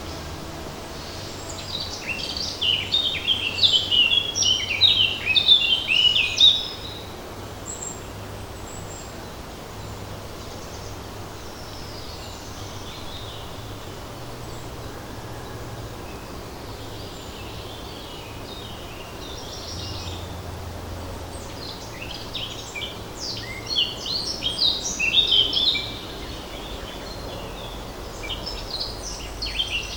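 Songbird singing in a forest: a long run of rapid, high twittering notes in the first few seconds, and another about two-thirds of the way through. Under it runs a steady hush of light wind in the leaves.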